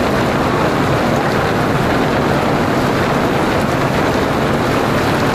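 Heavy rain pouring down on a street, a steady dense hiss of rain striking and splashing on the waterlogged road.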